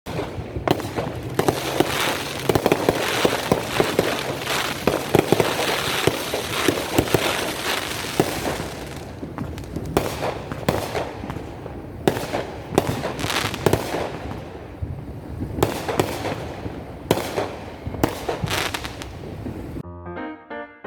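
Fireworks going off: a dense stretch of rapid crackling and bangs, then separate sharp bangs a second or so apart. Piano music comes in near the end.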